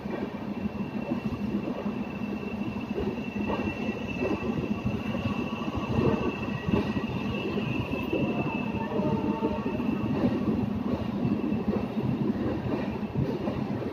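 Express train's passenger coaches rolling past at low speed as the train pulls into the terminus, wheels rumbling and knocking on the rails. A thin, high metallic squeal rises over it from about two seconds in and fades out past the middle.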